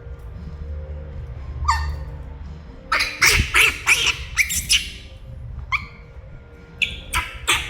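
Pet monkey calling loudly for its mother with short, sharp, high-pitched screeches: one a little under two seconds in, a quick run of about eight between three and five seconds, and a few more near the end. A steady low hum lies underneath.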